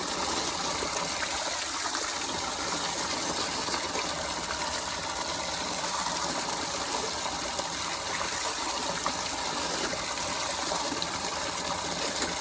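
Water running in a steady gush, used for washing the face.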